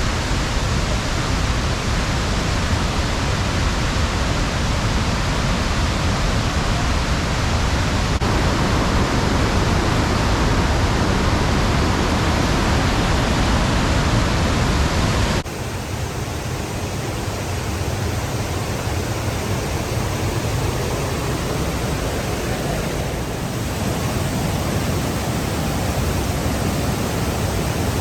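Waterfall: a steady, loud rush of falling water. About halfway through it cuts abruptly to a slightly quieter rush with less bass.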